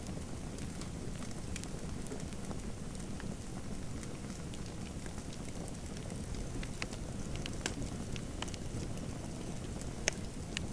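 Fireplace fire crackling: a steady low rumble with scattered sharp pops and snaps, the loudest one near the end.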